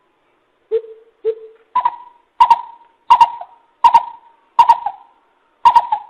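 Coucal (bìm bịp) calling a series of about eight hoots, roughly one every two-thirds of a second. The first two are low, then the calls step up in pitch and stay there, each note starting sharply and dying away.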